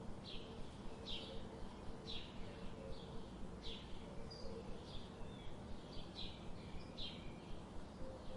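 A bird calling with short, sharp downward chirps, repeated roughly once a second over steady outdoor background noise.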